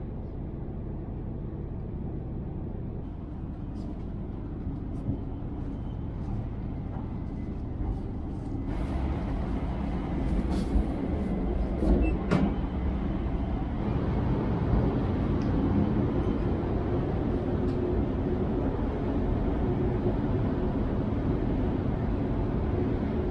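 Tohoku Shinkansen train running, heard inside the car as a steady low rumble. About nine seconds in it gets louder, with more hiss, and a few clicks and knocks follow, the loudest about twelve seconds in as a metal flap in the wall panel is handled.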